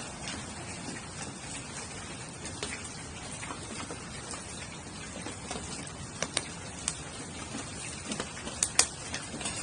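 Campfire in a fire stand crackling and popping, over a steady hiss of rain. A few sharper, louder pops come about six seconds in and again near the end.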